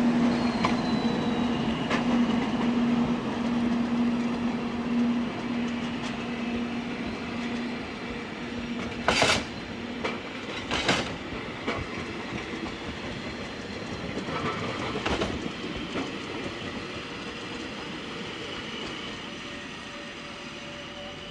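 Matterhorn-Gotthard-Bahn HGe 4/4 II electric locomotive and its coaches rolling past and pulling away. A steady hum from the locomotive fades after about five seconds, and the wheels clack along the rails with two sharp knocks about halfway through. The running noise slowly dies away as the train recedes.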